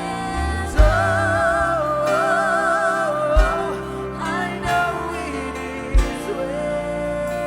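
Live worship band playing a slow contemporary Christian song: a held melody line with vibrato over sustained chords, and a kick drum thumping about every two and a half seconds.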